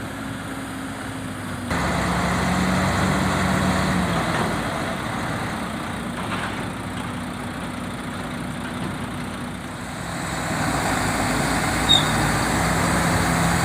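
Heavy diesel engine running steadily. It gets suddenly louder about two seconds in and swells again near the end, with one brief high squeak shortly before the end.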